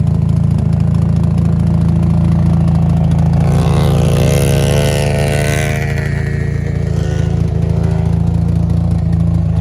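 Mazda RX-8's 13B-MSP rotary engine idling steadily, with a louder swell of wavering, shifting pitch from about four to six seconds in.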